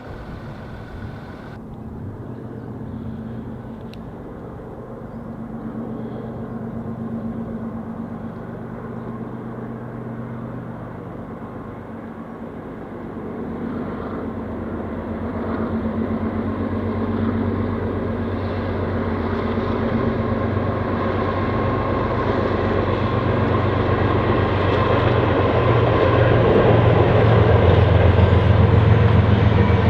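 Diesel locomotives of an approaching train running with a steady low engine drone, growing louder through the second half as the train nears.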